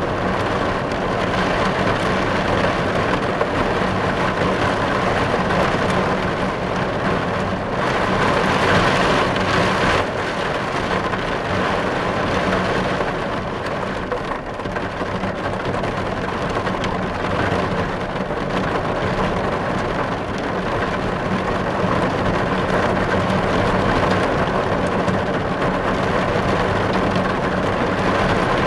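Heavy rain falling steadily on a car's windows, heard from inside the car. It grows a little heavier about eight seconds in, then drops back abruptly a couple of seconds later.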